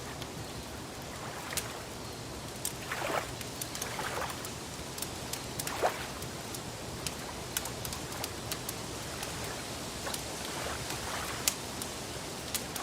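Wood fire crackling, with many sharp pops over a steady hiss, and soft water sloshing a few times.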